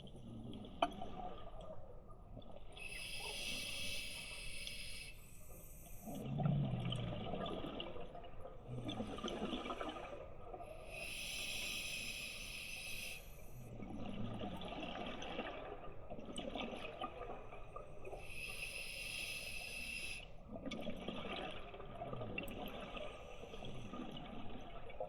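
Scuba diver breathing underwater through a regulator: a hiss of air through the demand valve on each inhale, then a longer burble of exhaled bubbles, repeated about three times.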